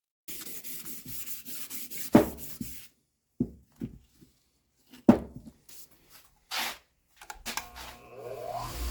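Quick rubbing strokes during hand work on bicycle parts, then two sharp knocks about three seconds apart with scattered clicks. Near the end a small power tool starts up with a rising whine.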